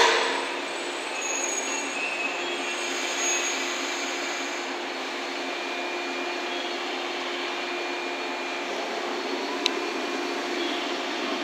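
JNR 105-series two-car electric train running away along curving track, a steady rail noise with a thin high squeal in the first few seconds. A sharp bang comes right at the start and a single short click near the end.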